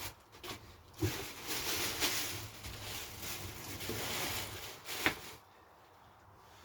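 Rustling and scraping as packaging and parts are handled, with a sharp knock about a second in and another about five seconds in, then quiet.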